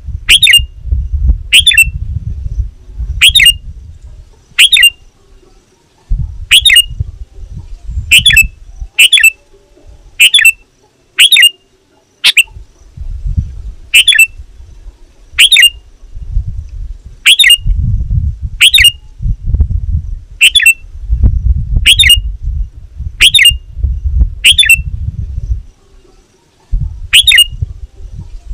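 Sooty-headed bulbul (kutilang) giving short, sharp call notes over and over, about one a second, as a lure call for other bulbuls. A low rumble comes and goes underneath.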